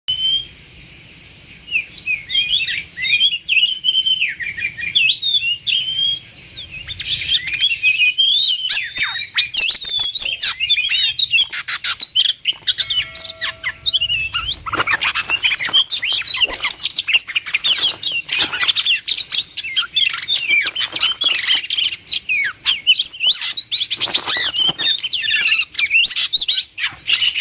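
Oriental magpie-robin (kacer) singing: a fast, varied run of whistles, chirps and sharp clicks that grows denser and busier after about seven seconds.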